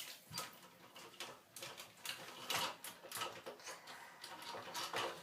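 Irregular light clicks and knocks, a few a second, of small hard objects being handled.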